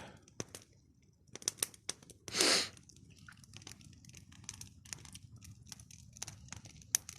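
Wood campfire crackling, with irregular sharp pops and snaps. A brief hiss comes about two and a half seconds in.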